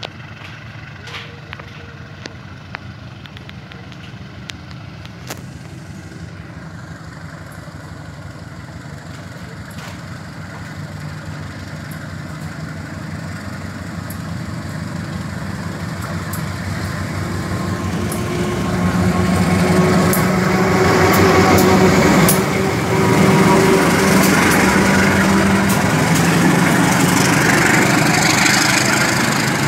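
Diesel-electric locomotive's engine running as it approaches, growing steadily louder and loudest from about twenty seconds in as it draws level and its passenger coaches roll close by, with sharp clicks from the wheels.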